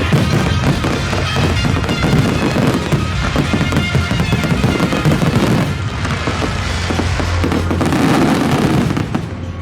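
Fireworks going off in a dense, continuous barrage of bangs and crackles, dying away about nine seconds in.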